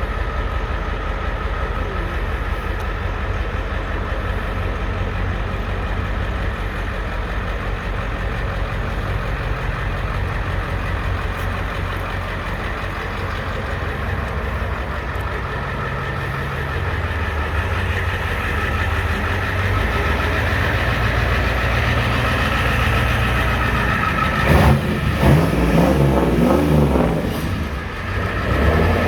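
Ford 7.3-litre diesel V8, straight-piped through 5-inch exhaust stacks, running steadily, then revved up and down a few times near the end.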